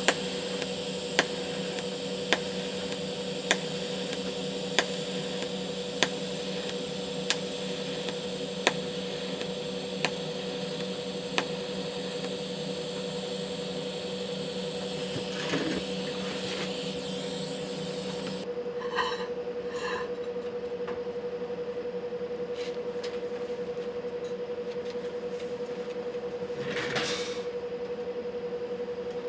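Steady workshop machine hum and hiss with sharp ticks about once a second for the first third. The hiss stops about two-thirds of the way through, leaving the hum and a few scattered faint clicks.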